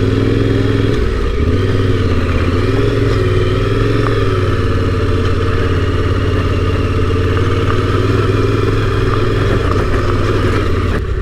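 Yamaha Ténéré 700's 689 cc parallel-twin engine running under throttle at fairly steady revs, its pitch rising and dipping slightly now and then.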